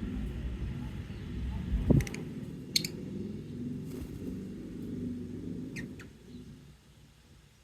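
A few short, high lovebird chirps, the loudest about three seconds in, over a steady low rumble that fades away near the end, with a thump about two seconds in.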